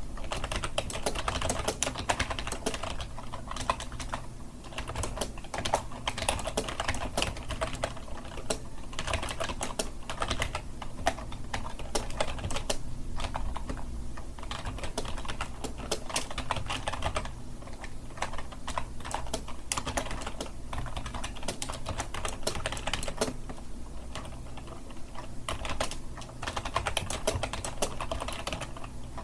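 Computer keyboard being typed on continuously, rapid irregular key clicks with short pauses between bursts, over a faint steady low hum.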